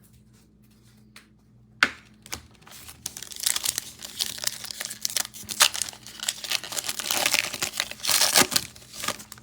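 A trading card pack's wrapper being torn open and crinkled. A sharp snap comes about two seconds in, then about six seconds of crinkling and tearing.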